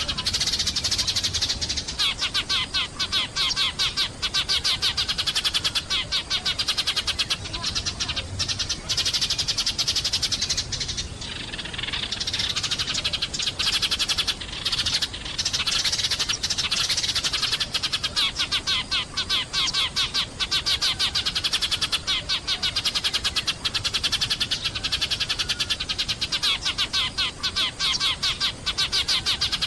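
A flock of sparrows chirping continuously: many rapid, overlapping chirps with only brief lulls.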